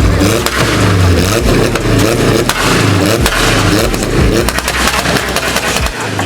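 A car engine revving in repeated blips, its pitch rising and falling about once a second over a deep, steady low rumble.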